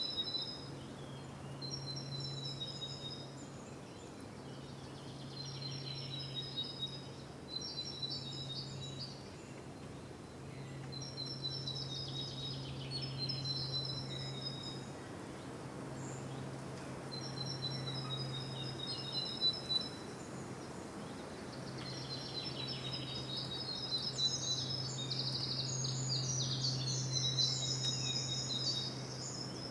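Outdoor ambience of songbirds singing short, repeated high-pitched phrases every few seconds over a steady background hiss, with a low hum coming and going underneath.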